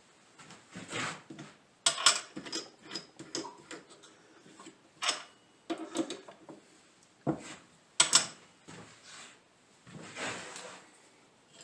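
Tools and small parts being handled and set down on a workbench: irregular sharp clicks and knocks with brief scraping between them, the loudest about two seconds in and again about eight seconds in.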